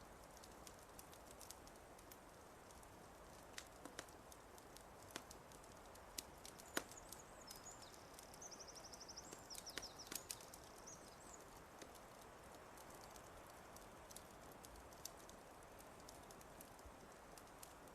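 Wood fire crackling: scattered sharp pops over a soft, steady hiss. A small bird sings a short, high phrase with a rapid trill about halfway through.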